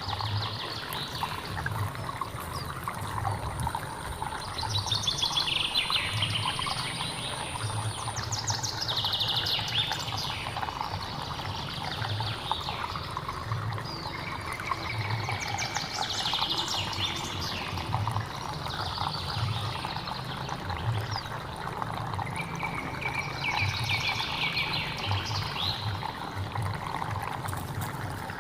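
Water flowing and gurgling steadily in a hill stream. Over it a songbird sings a phrase of quick notes falling in pitch several times, every few seconds.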